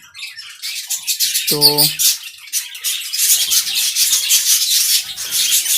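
A colony of budgerigars chattering continuously, with squawks mixed into the high-pitched warbling.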